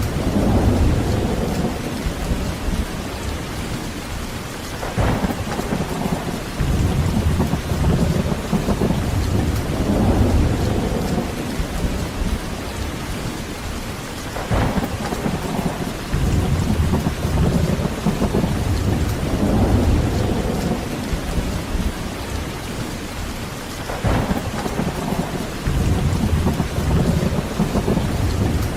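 Heavy rain falling steadily with low rolling thunder that swells and fades every few seconds, and three sharper thunder claps spread through it.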